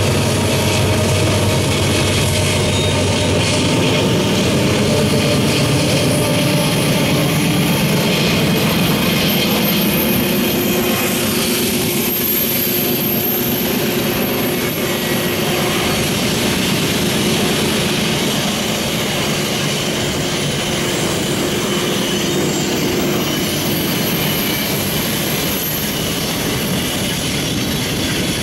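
Long freight train of boxcars and intermodal container cars rolling past, a steady rumble of wheels on rail. A low hum fades out in the first few seconds.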